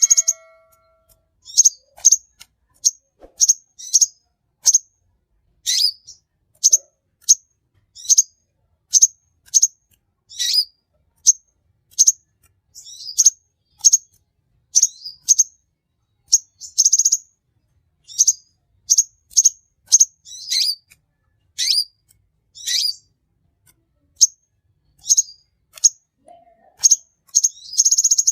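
A small bird giving short, sharp, high-pitched chirps, about one or two a second, with an occasional longer buzzy trill.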